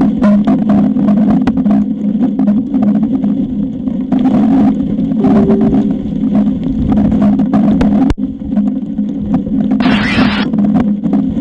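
Strong wind buffeting the nest camera's microphone: a loud, steady rumbling drone with constant crackling, and a brief louder hiss about ten seconds in.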